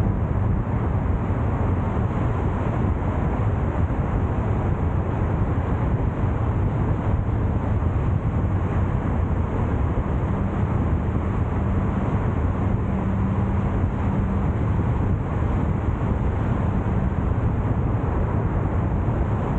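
Steady road and engine noise of a car being driven: a continuous low rumble with a faint hum and no sudden events.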